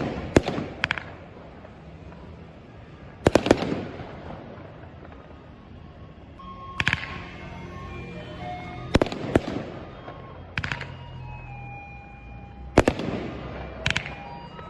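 Fireworks shells bursting in sharp bangs, some in quick pairs, every few seconds, each followed by a short rumbling fade, with music underneath.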